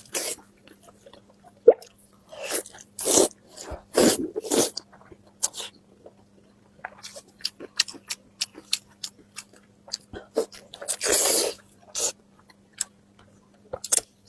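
Close-miked eating: a person chewing and biting food, with many small wet mouth clicks and a few louder, longer bites.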